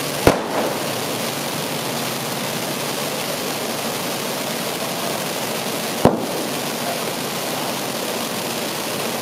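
Waterfall fireworks pouring down a curtain of sparks with a steady hiss. Two sharp bangs break through, one just after the start and one about six seconds in.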